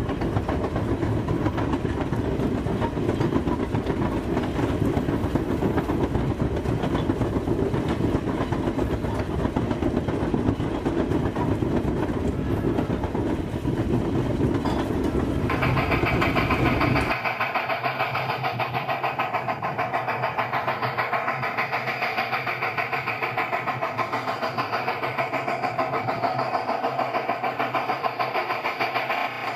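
Rail car rolling on track with a clickety-clack. About 16 seconds in it gives way abruptly to a steady engine running.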